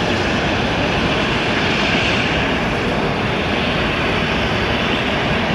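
Jet airliner engines running, a loud steady noise with no break.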